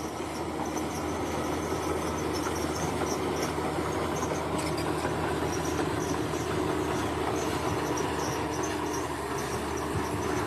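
Heavy bulldozer's diesel engine running steadily under load, a constant drone without revving, with insects chirping in a high pulsing pattern over it.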